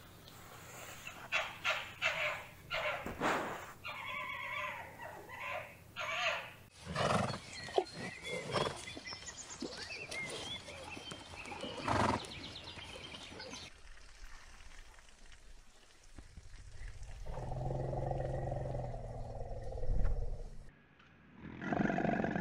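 A run of different animal calls, one after another: an arctic fox's repeated short, shrill cries, then zebras' barking calls, then a long low rumbling call in the last third.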